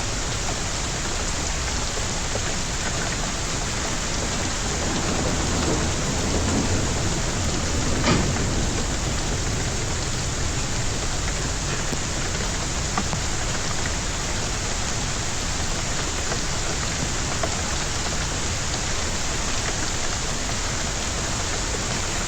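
Storm rain and hail beating steadily on surfaces. A low rumble swells about five seconds in and peaks in a sharp crack about three seconds later.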